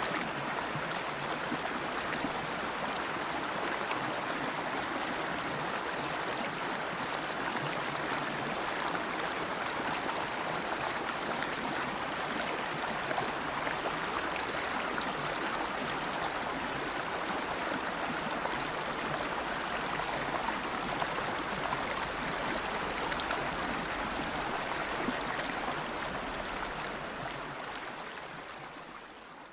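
River water flowing over rocks, a steady rushing and gurgling, fading out near the end.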